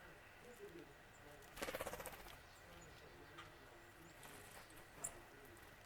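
Faint outdoor bird sounds: a quick burst of rapid, fading knocks or pulses about a second and a half in, and a single brief high note near the end.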